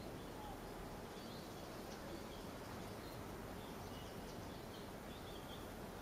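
Faint, scattered short chirps of small birds over a steady low background noise.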